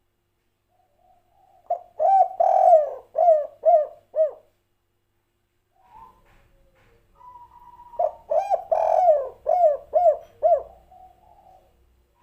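Spotted dove (tekukur) cooing its 'kuk 3' song. There are two phrases, each a quick run of about six loud coos that rise and fall in pitch, one about two seconds in and one about eight seconds in.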